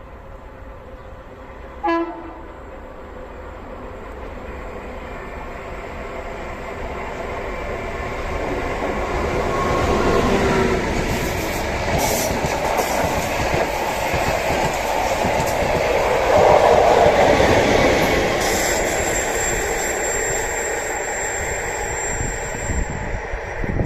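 A short train horn blast about two seconds in, then a train approaching and running past on the rails, building to its loudest in the middle and slowly fading.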